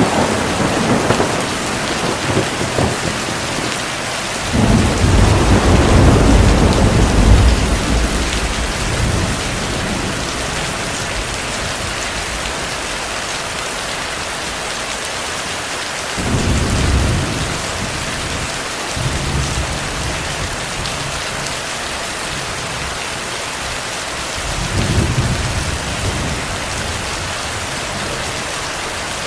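Heavy, steady rain with thunder rolling several times over it: a sudden crack right at the start, a long, loud rumble from about five to nine seconds in, and shorter, fainter rolls later on.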